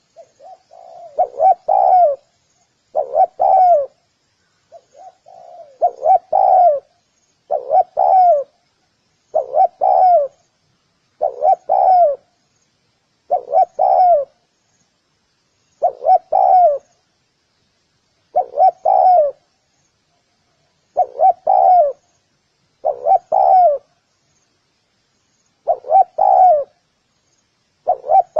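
Spotted dove cooing: a short phrase of a few notes, repeated about every two seconds.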